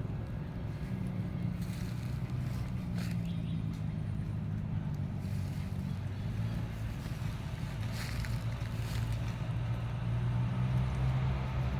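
A steady low engine hum, with a few faint clicks and knocks over it.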